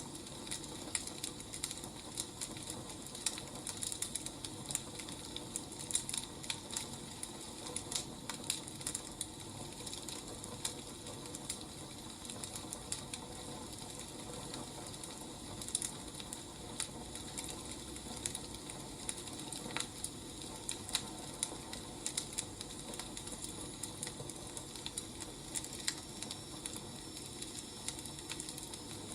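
Wood fire crackling: irregular sharp snaps and pops over a steady low hiss.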